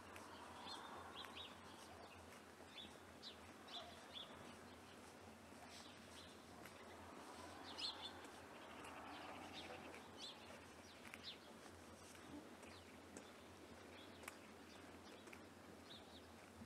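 Faint outdoor ambience: small birds chirping in short, high calls scattered throughout, over a soft steady hiss.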